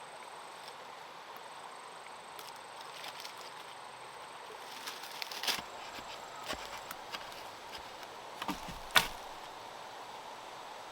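Scattered knocks and taps over a steady faint outdoor background, the loudest a sharp knock about nine seconds in.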